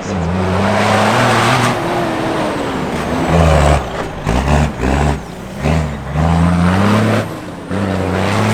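Tatra Dakar rally truck's big diesel engine revving hard. It pulls with rising pitch, gives a run of about five quick throttle blips in the middle, then pulls steadily again.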